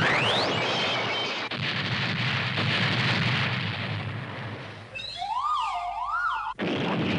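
Cartoon explosion sound effects: a rising whistle, then a long noisy explosion rumble. About five seconds in, a warbling siren-like electronic tone takes over for a second and a half. It cuts off abruptly and the rumble returns.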